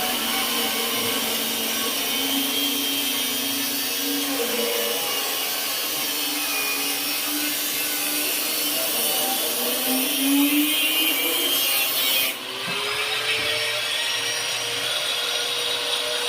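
Electric angle grinder running under load, its motor note wavering over a harsh grinding hiss. About twelve seconds in, the grinding hiss stops abruptly and the motor pitch rises and settles higher.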